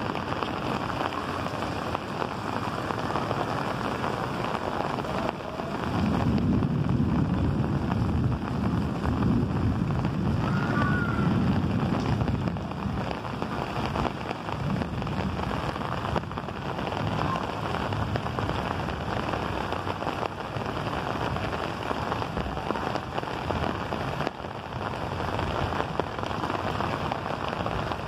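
Steady rain falling on rooftops and walls, a constant hiss of drops. About six seconds in, a low rumble swells for several seconds and then eases off.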